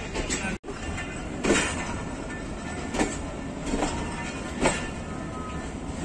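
Pakistan Railways passenger coach rolling along a station platform: a steady rumble from the running gear, with sharp clacks from the wheels every second or so as they cross rail joints. The sound drops out for an instant about half a second in.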